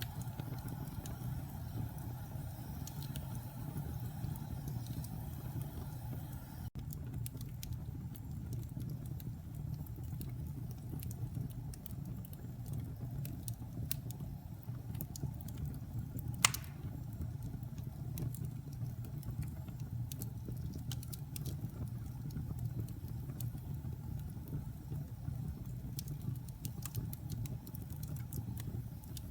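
Wood fire crackling over a steady low rumble of the flames, with scattered small pops and one loud sharp pop about halfway through.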